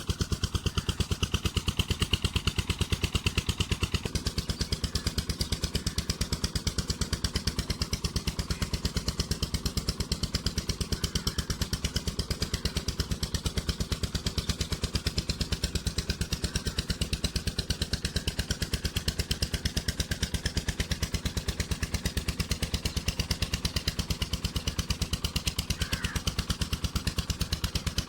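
Stationary diesel engine driving a tubewell pump, running steadily with an even, regular beat of firing strokes.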